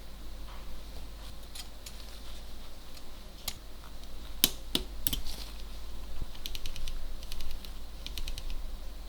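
Small metal clicks from a vintage camera's parts being handled and worked, followed by two short runs of rapid, evenly spaced ticking from the mechanism, over a steady electrical hum.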